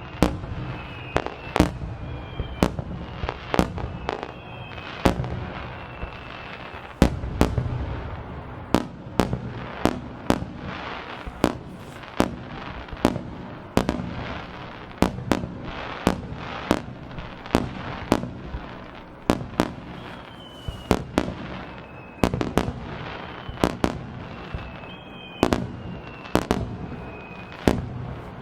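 Aerial fireworks going off in quick succession, a steady barrage of sharp bangs about one to two a second over a low rumbling echo. Now and then a whistling shell sounds with a short whistle falling in pitch.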